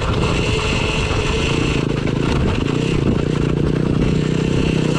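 Husqvarna EE5 electric dirt bike riding along a trail, with a steady high whine from its drive and constant wind and motion noise on a rider-mounted camera.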